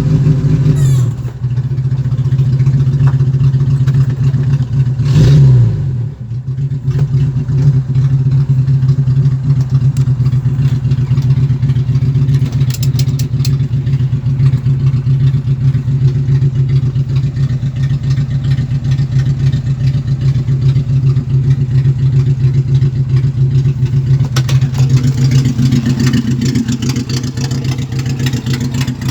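Ford Maverick's 2.3 OHC four-cylinder engine running loud and steady, with one short throttle blip that rises and falls about five seconds in.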